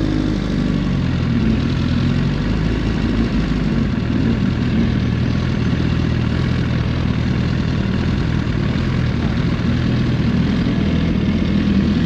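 Superbike inline-four engine running steadily at low revs through an aftermarket exhaust, an even low note that shifts slightly about a second in.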